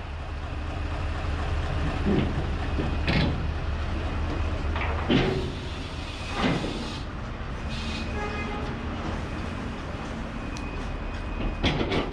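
About five heavy metallic clanks and knocks as a crane's spreader handles a steel shipping container on a truck trailer, over a steady low engine rumble.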